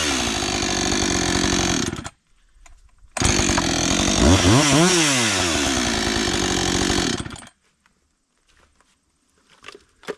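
Husqvarna 562 XPG two-stroke chainsaw engine dropping from cutting speed to a fast idle, then, after a short gap, idling with one quick rev up and back down before it stops about seven and a half seconds in.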